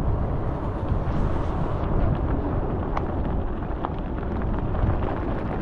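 Steady wind buffeting on the microphone and rolling rumble from a moving e-bike, with a few faint clicks.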